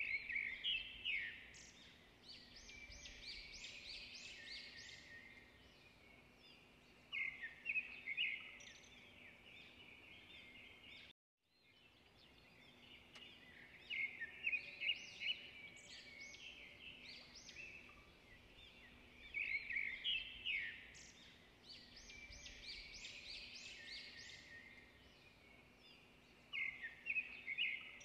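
Birdsong: repeated bouts of quick, high chirping calls over a faint steady hiss, cut off completely for a moment about eleven seconds in.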